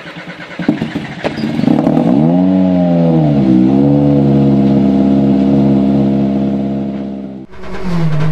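An engine revving after a few clicks: its pitch sweeps up, dips and levels into a steady hum that fades out about seven and a half seconds in. Near the end a Renault Clio R3T rally car's engine comes in, its pitch falling briefly and then holding steady at idle.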